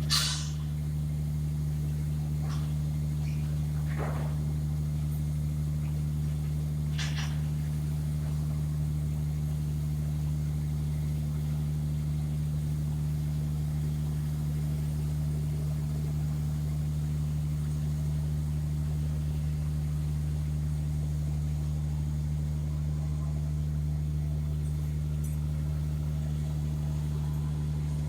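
Heavy diesel engine idling steadily, with a sharp knock right at the start and two fainter short knocks a few seconds later.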